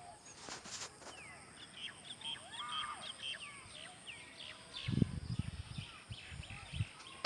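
Birds chirping and calling, many short chirps and sweeping notes overlapping, with a few low thumps in the second half.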